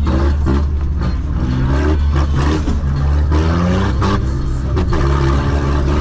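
Off-road vehicle's engine revving up and down over and over under a heavy low rumble, with knocks and rattles of the vehicle working over rough trail.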